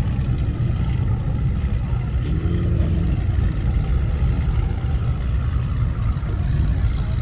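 Car engines running at a car meet, a steady low rumble.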